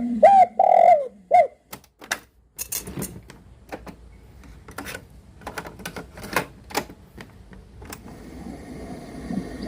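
Radio receiver being tuned between stations: a few short whistling tones in the first second or so, then irregular crackles and clicks of static, with a steady hiss building near the end as the next station starts to come in.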